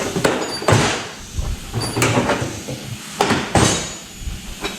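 Metal hand tools clinking and clattering: a series of separate knocks, some with a short high metallic ring, as wrenches or sockets are handled.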